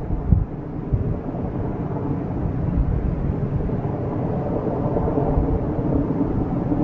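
Steady low rumble of wind buffeting the microphone in a storm, with a few low thumps in the first second.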